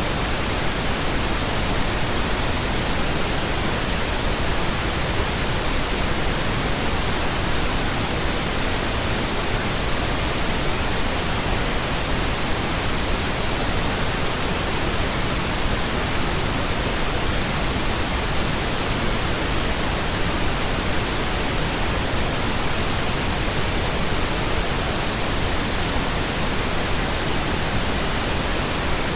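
Steady pink noise: an even, unchanging hiss spread across the whole range from deep rumble to high hiss.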